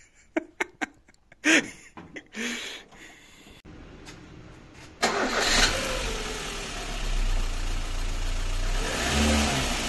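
A VAZ-2110's four-cylinder engine starting about halfway through after a few clicks, then running steadily, with the revs rising near the end. It is being run to check whether a body vibration, traced to the engine mounts, is gone.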